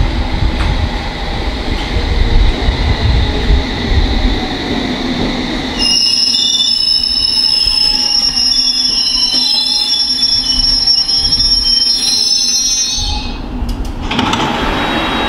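London Underground S7 Stock train running in and braking to a stop. A low rumble as it arrives gives way, about six seconds in, to a steady high-pitched squeal of brakes and wheels as it slows. The squeal dies away near the end, followed by a short burst of hiss.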